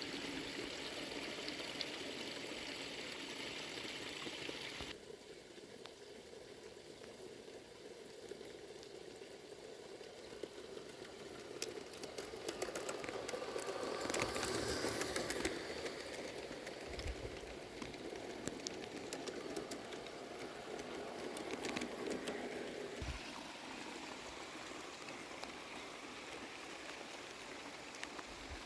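Rain falling steadily, a hiss of water noise. It changes abruptly about five seconds in and again near 23 seconds, and gets louder around the middle, with many sharp clicks.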